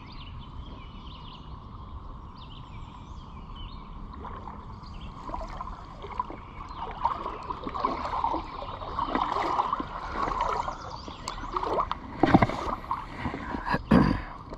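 Creek water sloshing and splashing irregularly, growing busier about five seconds in, with two louder splashes near the end.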